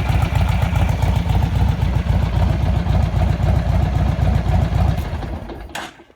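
Vehicle engine idling through a newly changed muffler and exhaust pipes, a steady low rumble. About five seconds in it is switched off and dies away, with a short hiss as it stops.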